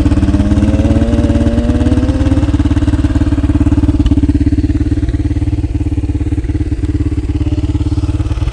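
Honda XR250R's single-cylinder four-stroke engine running steadily at low to moderate revs, the revs rising a little in the first couple of seconds, then holding.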